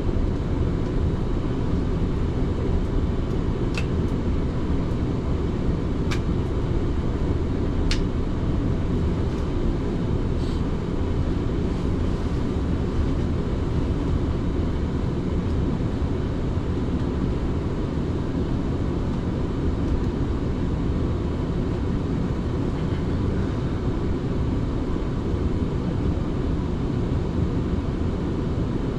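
Passenger train running, heard from inside the carriage: a steady low rumble of wheels and running gear, with three sharp clicks in the first eight seconds.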